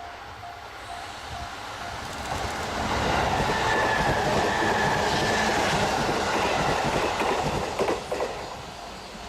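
Freight train passing on the main line: a rising and falling rumble with the wheels clattering over the rail joints, loudest in the middle, and a couple of sharp knocks as the wagons go by near the end.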